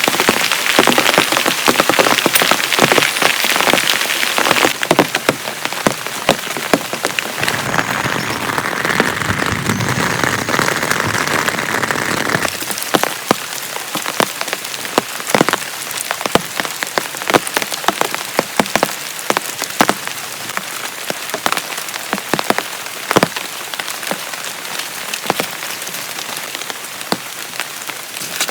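Heavy rain falling steadily, with many sharp, separate drops striking a surface close by. The rain is loudest and hissiest in the first few seconds and settles a little quieter later on.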